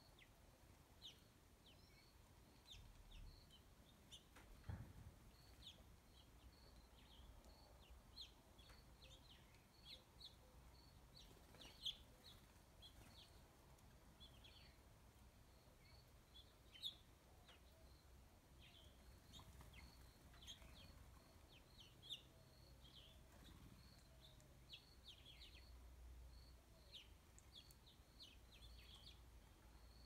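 Small birds chirping faintly: many short, high chirps in quick succession, over a low rumble of wind.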